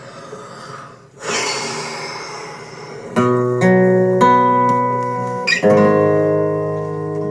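A brief rushing noise, then acoustic guitar chords strummed a few times from about three seconds in, each left to ring.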